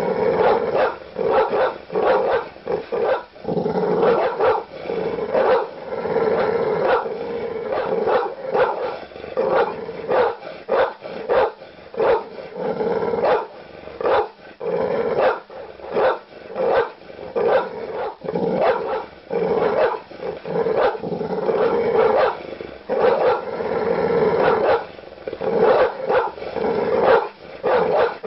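Large dogs barking aggressively: deep, rapid barks in quick succession, several a second, with growls between them.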